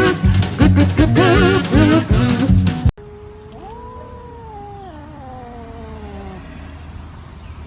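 Loud music with a drum beat that cuts off suddenly about three seconds in, followed by a cat's long drawn-out meow lasting about three seconds and falling in pitch toward its end. A second call begins right at the end.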